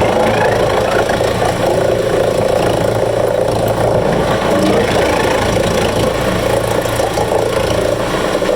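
Wood chipper's engine running steadily.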